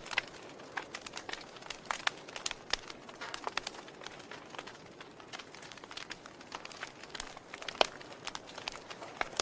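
Wood fire crackling in a fireplace: irregular sharp pops and snaps over a soft steady hiss, with one louder pop nearly eight seconds in.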